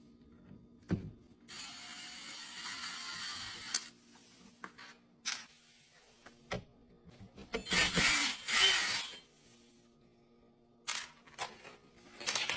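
Dishwasher parts being handled during disassembly: a knock, about two seconds of scraping, then scattered clicks and a louder clatter of plastic and metal parts.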